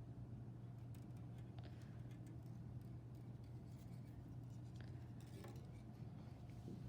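Faint scattered clicks and small snips of hand work on wire, over a steady low hum.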